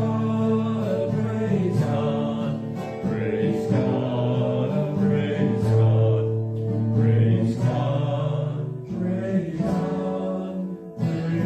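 Church music: a hymn or gospel song sung by voices over held instrumental chords.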